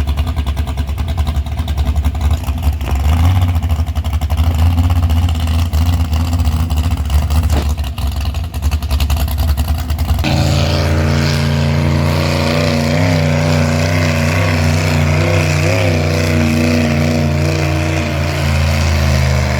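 Heavily modified pulling tractor's engine running loud and rough. About ten seconds in the sound changes abruptly to a steadier, more even engine note whose pitch wavers up and down.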